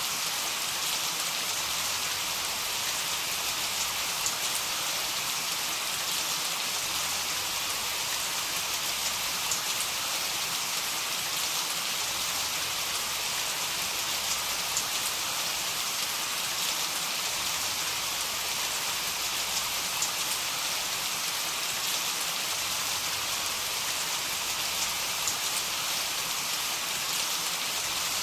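Heavy rain falling steadily: an even hiss of downpour with fine ticks of individual drops, no thunder.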